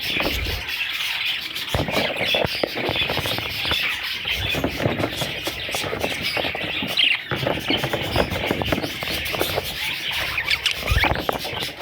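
Budgerigar chicks calling continuously in a dense chatter of overlapping chirps and squeals.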